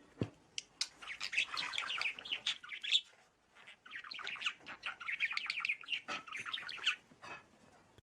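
Bird chirping in rapid, chattering runs: two bouts of quick high chirps with a brief pause between them.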